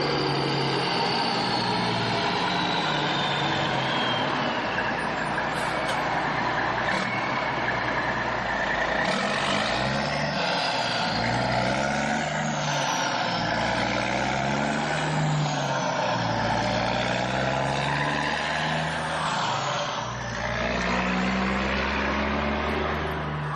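A motor-vehicle engine running without a break, its pitch rising and falling again and again as it revs up and down.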